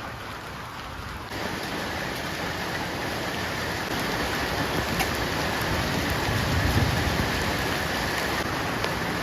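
Steady rain falling, with scattered drops ticking; it gets louder about a second and a half in.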